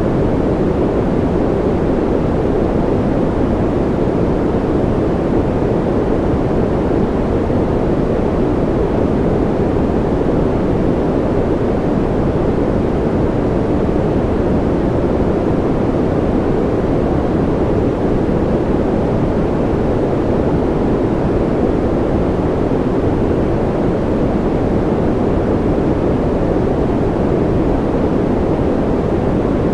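Continuous white-noise track for infant sleep: an even, deep hiss with most of its weight in the low and middle range, unchanging throughout.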